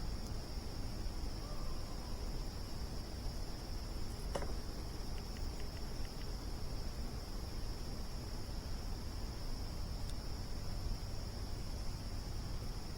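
Crickets chirring in a steady, unbroken trill over the low rumble of a campfire, with one sharp crackle from the fire about four seconds in.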